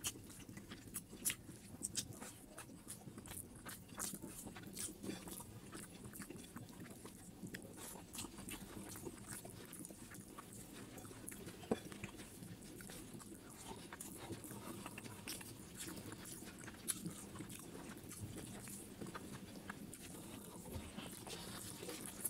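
Faint close-miked eating: chewing with many small wet mouth clicks and smacks as rice and spicy duck feet curry are eaten by hand.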